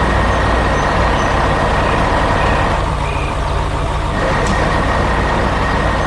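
Heavy construction-machine engine running steadily: a deep even rumble with a thin, steady high whine over it.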